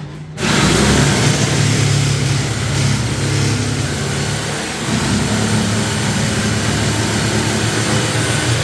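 A motor or engine running steadily, starting abruptly about half a second in, with a brief dip around five seconds in.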